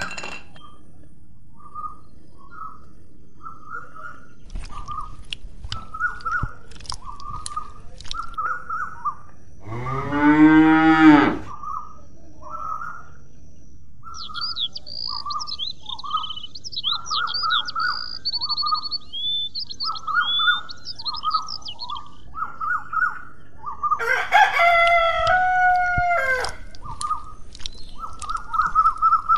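Farmyard birds: a rooster crows once about ten seconds in, over a bird's short calls repeated about once a second. A small bird chirps for several seconds after the crow, and another long, loud call comes near the end.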